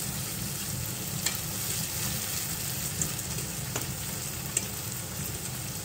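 Vegetable sofrito with tomato sizzling steadily in a nonstick frying pan while it is stirred with a fork, with a few light clicks of the fork against the pan.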